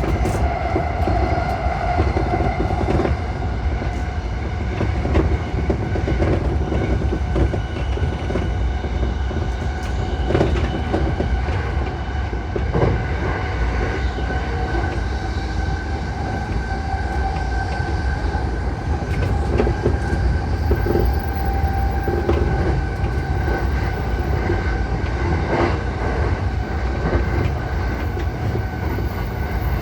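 E235-1000 series electric train running at speed, heard from inside the leading car: a steady rumble of running noise with a few held tones over it, and the wheels clicking over rail joints now and then.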